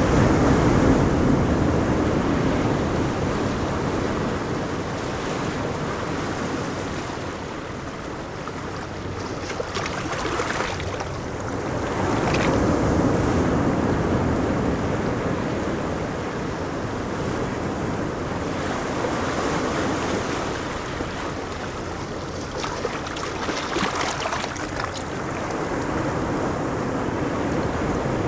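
Ocean waves breaking and washing on a beach, the surf swelling and ebbing every several seconds, with some wind on the microphone.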